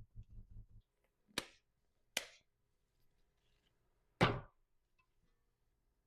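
Quick soft taps of a knife chopping on a cutting board for under a second, then three separate knocks, the last about four seconds in being the loudest.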